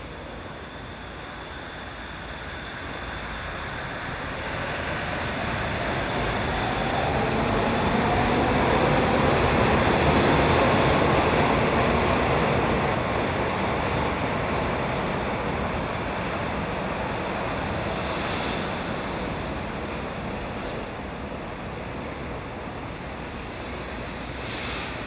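A large vehicle approaches and passes, growing louder to about ten seconds in and then fading, with a gliding motor whine as it goes by.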